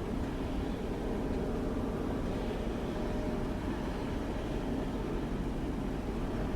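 Turboprop engines of a DHC-6-400 Twin Otter running, a steady drone with a faint even hum.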